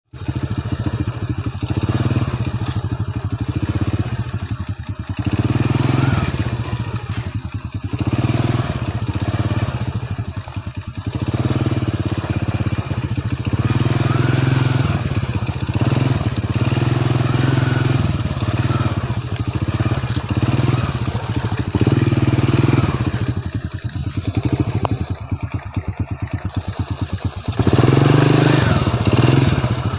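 Motorcycle engine running with the throttle opening and closing, the revs rising and dropping every few seconds, with brief easings-off around 5, 8, 11 and 25 seconds in.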